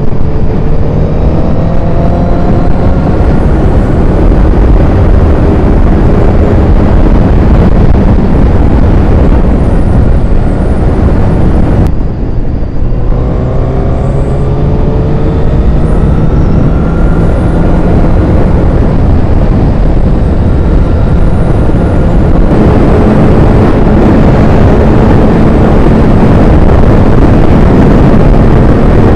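Honda CBR1000RR Fireblade's inline-four engine accelerating hard, its pitch rising through the gears twice with a break between, then running at a steadier speed, under heavy wind rush on a helmet microphone.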